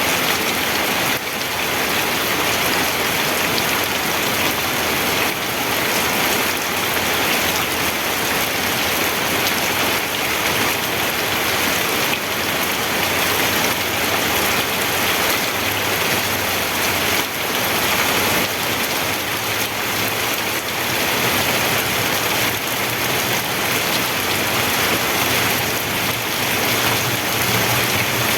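Steady, dense rainfall pattering on surfaces, an even hiss with scattered drop ticks. A faint low hum comes in about halfway through.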